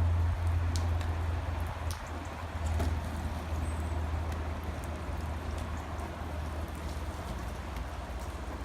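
Rain falling steadily, under a strong low rumble that slowly fades, with a few faint sharp clicks.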